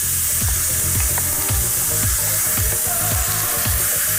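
Sliced courgettes, onion and garlic sizzling steadily in hot oil in a pot while being stirred with a wooden spoon.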